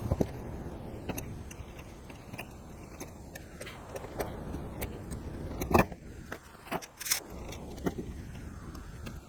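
Hands-on workshop handling noise: scattered clicks, taps and light scrapes, the loudest just before six seconds in, over a steady low background noise that eases off after about six seconds.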